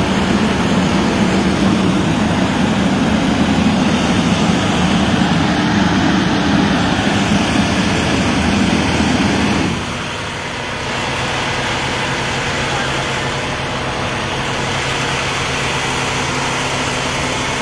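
Heavy vehicle engine running close by, loud for about the first ten seconds, then settling to a lower, steady idle.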